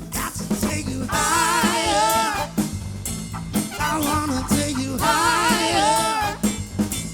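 Live soul band with a horn section playing a song: a bass and drum-kit groove under two long, wavering melody phrases, one starting about a second in and another about halfway through.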